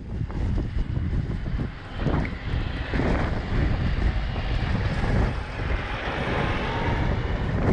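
A machine's engine running steadily, with wind buffeting the microphone.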